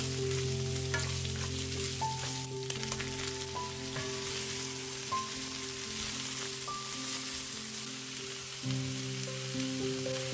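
Beef and broccoli sizzling in hot oil in a frying pan, stirred and turned with metal tongs. Soft background music with held notes plays underneath.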